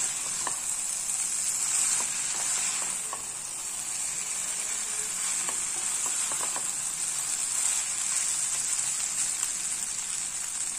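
Stir-fried millet noodles and vegetables sizzling in a nonstick pan while being tossed with a wooden spatula and a silicone spatula: a steady high hiss with light scattered clicks of the utensils against the pan.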